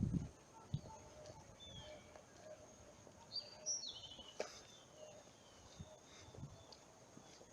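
Birds chirping faintly in short falling notes, with a brighter run of chirps about three and a half seconds in and a single sharp click about a second later.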